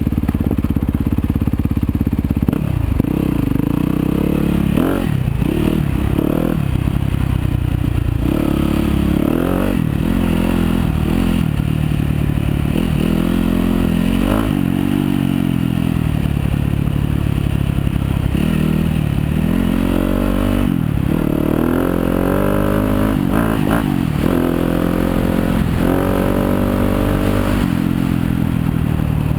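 Yamaha YZ250FX dirt bike's 250 cc four-stroke single-cylinder engine on a trail ride, revving up and dropping back again and again as the rider works the throttle and gears, with harder revving in the last third. Short knocks and clatter sound here and there over it.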